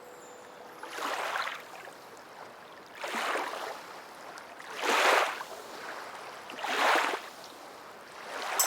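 Ocean waves washing onto a shore: four separate swells of surf about two seconds apart, each rising and falling away.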